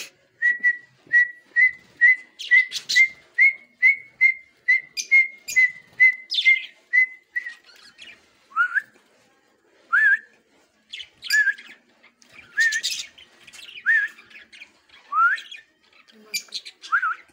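Birds calling: a run of about fifteen short whistled notes at one steady pitch, about two a second, then rising whistled notes every second or so, with short high chirps between them.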